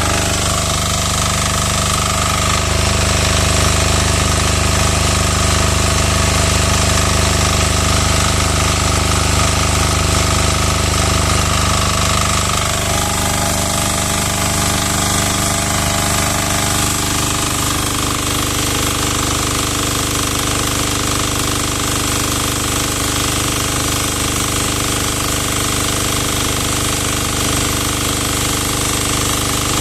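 10 hp diesel engine of a Lutian pressure washer running steadily with a hard, clattering note. Its note changes abruptly about twelve seconds in, then stays steady.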